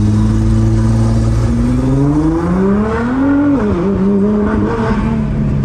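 Nissan GT-R's twin-turbo engine under way: it runs steadily, then revs up for about a second and a half, drops sharply in pitch about three and a half seconds in as the throttle is lifted or a gear is changed, and settles back to a steady run.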